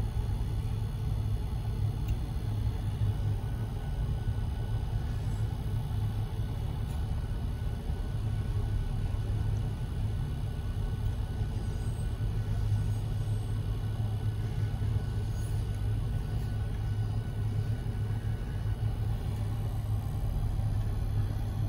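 Steady low rumble of a Union Pacific auto train's autorack cars rolling past, heard from inside a car's cabin.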